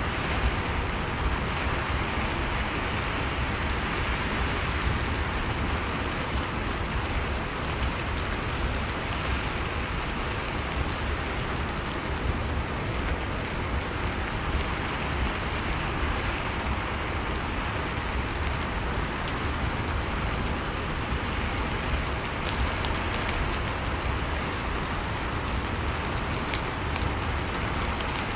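Steady, even rain with a low rumble underneath.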